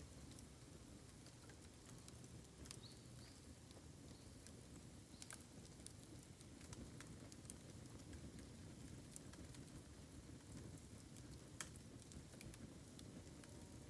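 Faint crackling of a bamboo bonfire, with scattered sharp ticks and small pops over a low, steady background.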